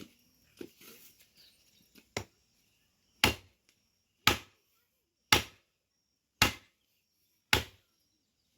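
Firewood being chopped: a few light knocks, then about six heavy blows landing roughly a second apart.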